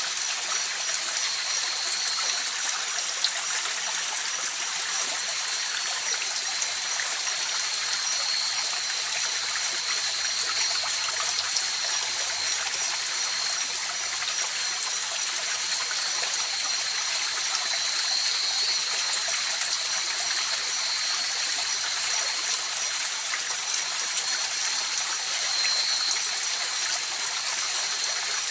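River water flowing steadily over stones, an even rushing babble. Several steady high-pitched tones run unbroken above it.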